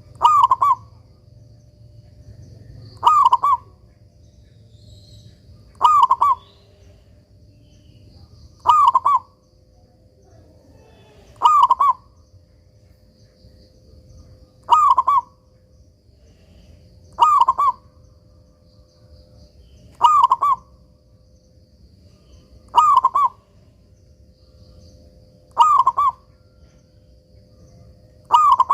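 Zebra dove (perkutut) cooing: one short phrase of a few quick notes about every three seconds, ten times in a row, over a faint steady hum.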